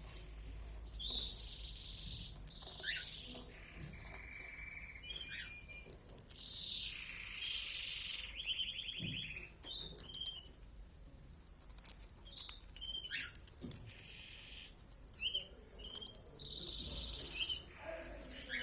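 Pet cage birds chirping and singing, with short calls and several fast trilled phrases.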